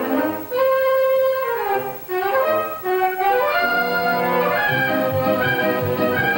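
Orchestral cartoon score with woodwinds, brass and strings playing a lively, gliding melody.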